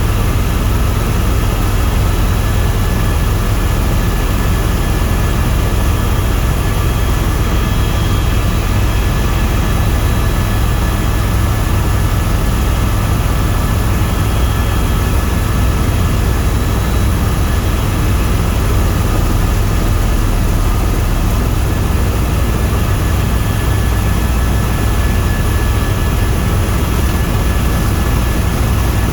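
Tour helicopter in steady flight: a continuous, loud turbine-and-rotor roar, heaviest at the low end, with a few faint steady whines above it and no change throughout.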